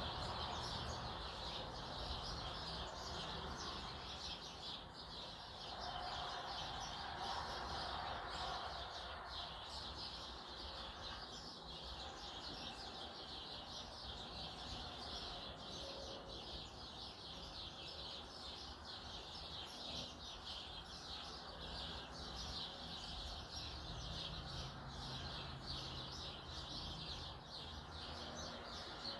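Many small birds chirping at once, a dense, unbroken run of short overlapping calls.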